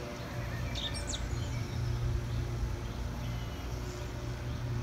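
Outdoor ambience: a bird gives a few quick chirps about a second in, over a steady low rumble.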